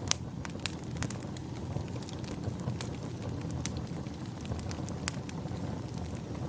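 Wood fire crackling in a fireplace: irregular sharp pops and snaps, the loudest just after the start and about five seconds in, over a steady low rumble.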